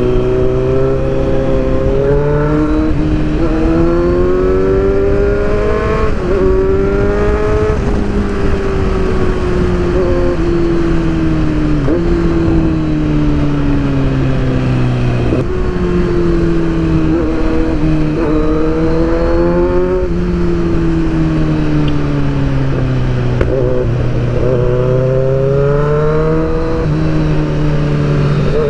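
Sport motorcycle engine heard from on the bike: the pitch climbs with the throttle, falls back suddenly at each change, and winds down in long slides as the rider eases off, over a steady rush of wind and road noise.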